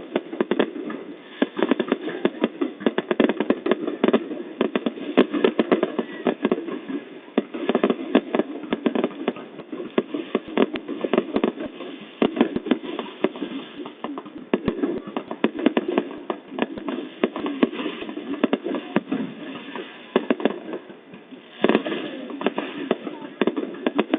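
Fireworks going off continuously: a dense run of sharp bangs and crackles, many overlapping each second.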